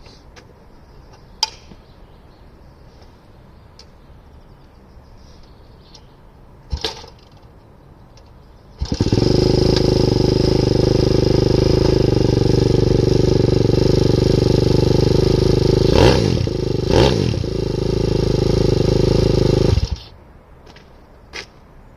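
Freshly rebuilt YX 160cc single-cylinder four-stroke pit bike engine cold-starting at −1°C: it catches suddenly about nine seconds in and runs steadily, is blipped twice near the end, then is shut off abruptly.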